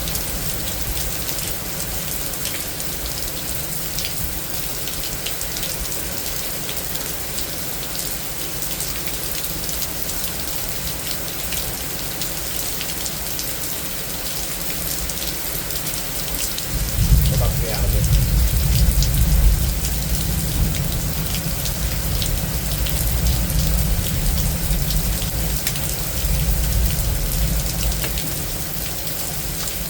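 Rain falling steadily during a thunderstorm, a dense patter throughout. A little past halfway a deep low rumble sets in and lasts about ten seconds.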